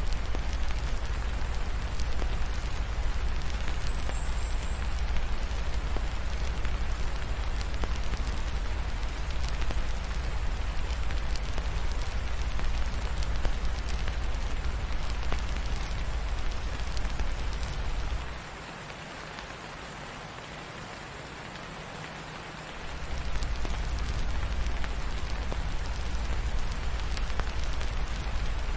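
Steady rain falling, an even hiss, mixed with the scattered small crackles of a wood fire. A deep low rumble under it drops out for about four seconds past the middle, then returns.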